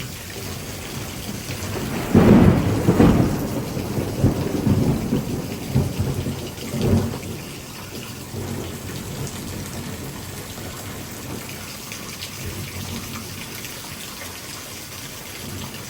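Heavy rain falling steadily, with a loud rolling rumble of thunder that starts about two seconds in and swells several times over about five seconds before fading back into the rain.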